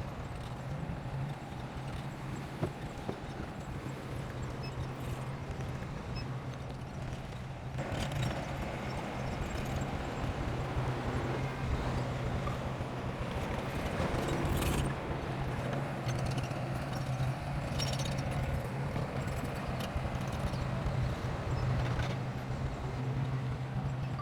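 Crawler bulldozer working: a steady diesel engine hum under a dense clatter of clanking steel tracks, growing louder about eight seconds in.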